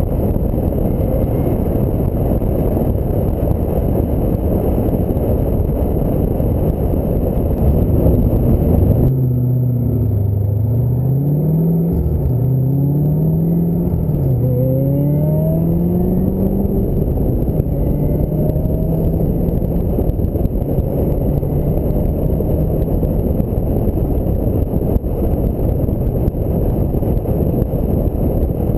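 Wind and road noise in a moving Ford Mustang SVT Cobra, with the V8 engine rising in pitch three times as it accelerates through the gears about a third of the way in, then holding a steady pitch while cruising.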